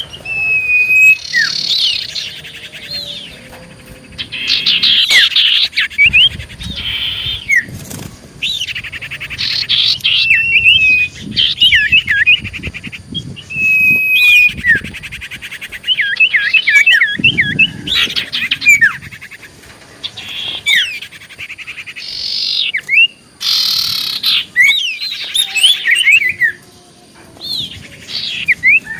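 Common iora singing loudly and continuously. Its phrases mix sliding whistled notes, fast trills and harsh buzzy chatter, coming in bursts with short pauses between them.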